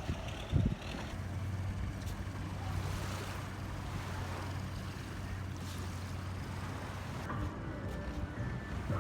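Long-tail boat's engine running with a steady low hum, over wind on the microphone and water rushing past the hull, with a single thump just before a second in.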